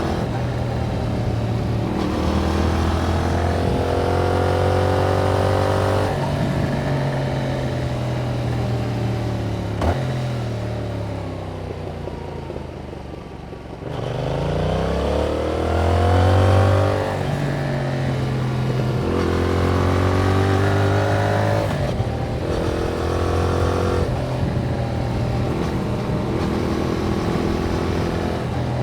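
2021 Yamaha MT-07's parallel-twin engine through its stock exhaust, heard from on board while riding. It pulls up through the gears, the pitch dropping suddenly at each shift, falls away off the throttle near the middle, then climbs steeply in a hard acceleration, the loudest part, followed by more upshifts.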